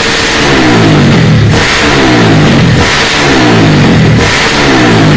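Honda CG Titan motorcycle's single-cylinder four-stroke engine, bored out from 150cc to 220cc, blipped hard on the throttle about four times. Each rev rises quickly and drops back toward idle.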